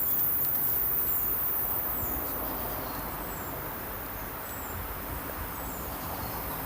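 Tropical rainforest ambience: a steady high insect drone, with a short, thin, downward-sliding chirp repeating about once a second.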